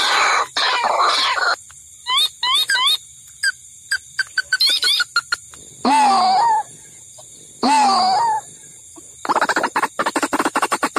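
White-breasted waterhen (ruak-ruak) calls from a lure recording: a harsh stretch of calling at the start, then short rising notes and quick pips, two longer falling calls, and a fast run of repeated notes from about nine seconds in.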